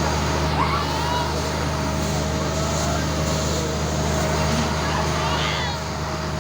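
A steady engine or motor drone, unchanging in pitch, with voices and brief high chirps over it.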